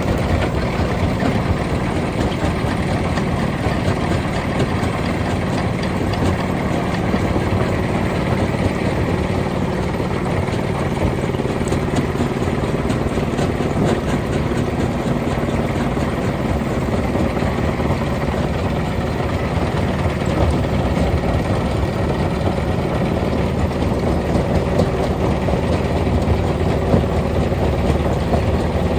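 Stone-crushing machinery running steadily: a dense, continuous noise with a low engine hum underneath and a scatter of small knocks throughout.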